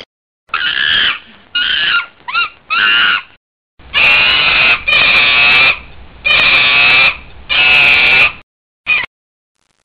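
Animal sound effect: a series of loud, harsh animal calls, four short ones with bending pitch followed by four longer, even calls and a final short one, each separated by brief silences.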